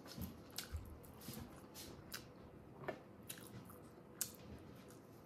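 Close-miked eating sounds: wet chewing and lip smacks as a mouthful of curry and rice is eaten, heard as a scattering of short, sharp squishes, the loudest about four seconds in.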